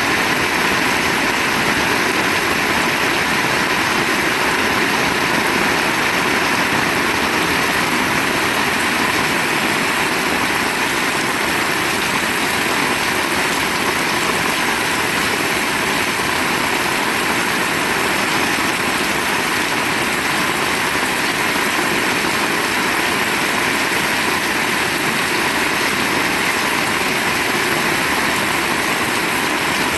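Heavy rain falling in a steady downpour: a dense, even hiss and rumble that stays the same throughout, with no thunderclap.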